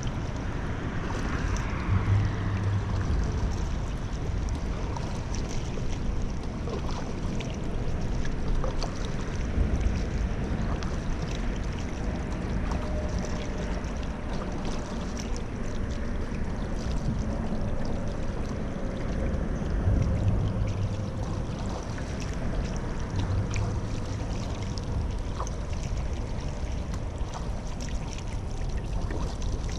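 Paddle strokes dipping into river water, with splashing and dripping from the blade, over a steady low rumble.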